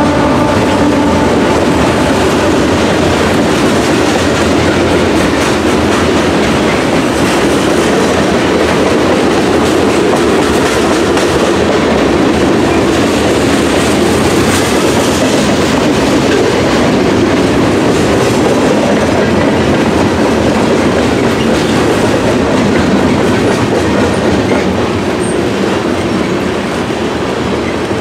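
A train passing close by, its steel wheels clattering over the rails in a steady, loud rumble. The tail of a train horn blast fades out in the first second.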